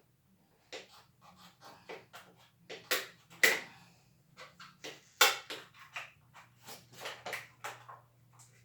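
Hard plastic packaging and tool-kit parts being handled and pried at: a string of clicks, crinkles and knocks, with two sharper knocks about three and a half and five seconds in, over a faint steady low hum.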